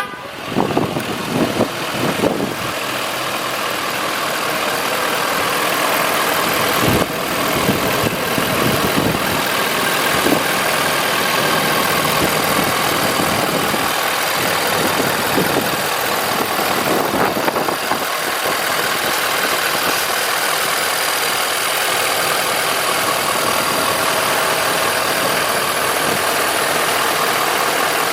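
2014 Ford F450 stakebed truck's engine idling steadily, with a few knocks in the first couple of seconds.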